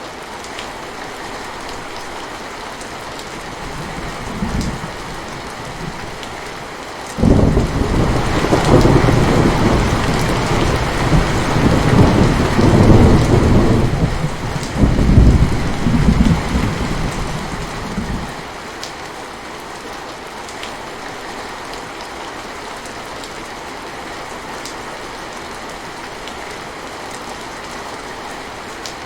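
Steady rain falling in a thunderstorm. A brief rumble of thunder comes about four seconds in, then a long, loud roll of thunder starts suddenly about seven seconds in and dies off around eighteen seconds, with the rain continuing afterwards.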